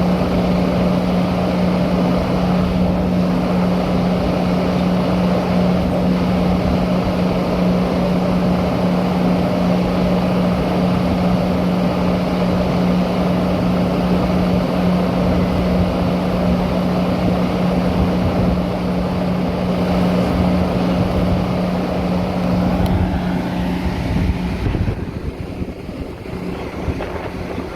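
Metra commuter train running, a steady rumble with a constant low hum. The hum stops and the noise drops a little near the end.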